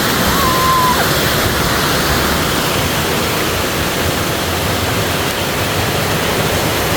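Steady rush of falling and flowing water from the creek's waterfall and the spring-fed pools, a loud, even roar.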